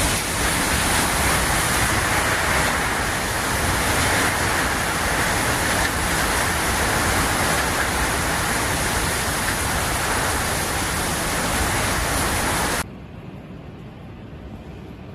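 Heavy rain coming down as a loud, dense, steady hiss. It cuts off abruptly about thirteen seconds in, leaving a much quieter steady rush.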